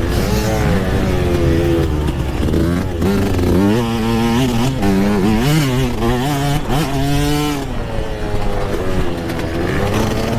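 Yamaha YZ125 two-stroke dirt bike engine being ridden hard, its pitch repeatedly climbing and dropping as the throttle is worked and gears change.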